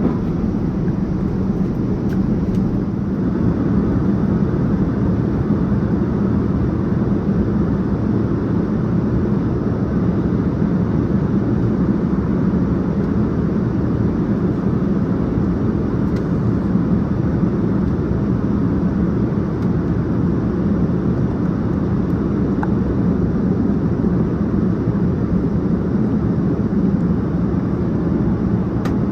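Steady, even rumble of cabin noise inside a Boeing 787-9 airliner: engine and airflow noise, deepest and loudest in the low range, with no change throughout.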